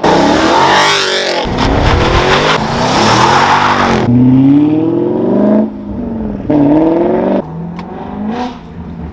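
Car engine accelerating hard through the gears. The pitch climbs steeply, drops at each shift, then climbs again, twice in the second half. A loud rushing noise overlies the engine for the first four seconds.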